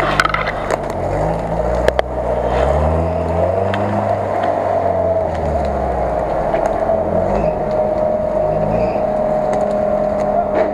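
UAZ-469 off-roader's engine running under load and revving up and down several times as it crawls through mud, with a steady whine over the engine note. A few sharp cracks come in the first two seconds.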